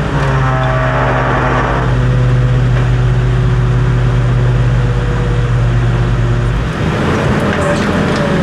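A motor vehicle's engine running at a steady speed: a constant low hum with a stack of overtones. The deepest part of the hum drops away about six and a half seconds in.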